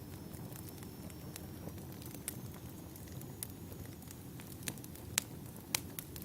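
Wood fire burning with a steady low rumble and scattered sharp crackling pops of the logs, the loudest pops about five to six seconds in.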